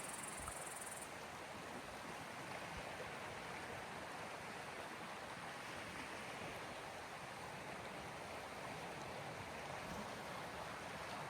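Waves of the Gulf of Finland washing ashore: a steady, even rush of water. A faint high hiss stops about a second in.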